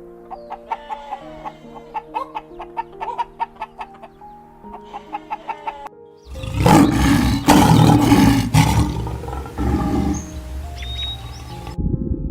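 Background music with plucked notes, then about six seconds in a sudden loud, rough animal roar that lasts about three seconds and trails off.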